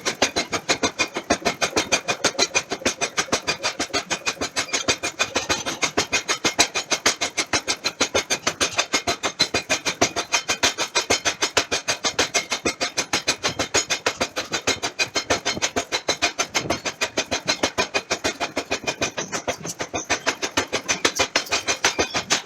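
Mechanical forging hammer pounding a steel billet in a fast, steady rhythm of about five blows a second, each a sharp metallic strike.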